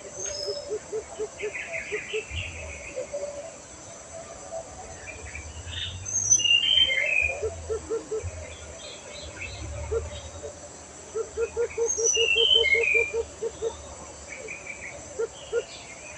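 Birds calling: scattered high chirps and short slurred whistles, with several runs of quick low pulsed notes at about five a second.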